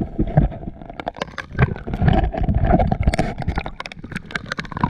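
Sea water splashing and sloshing around a swimmer close to the microphone, with many quick, sharp splashes over a rough, churning low rumble.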